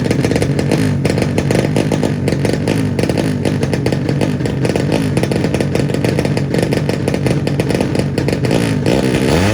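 Drag-racing 200cc underbone motorcycle engine running loud and steady at high revs.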